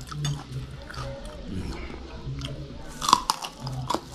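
Close-mic chewing and crunching of raw vegetables such as bitter gourd and string beans, a steady chewing rhythm with a few sharp, louder crunches about three and four seconds in.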